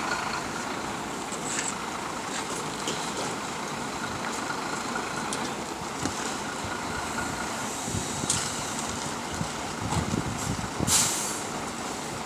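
Asphalt repair equipment running steadily, with a few light knocks and a short loud hiss of air about eleven seconds in.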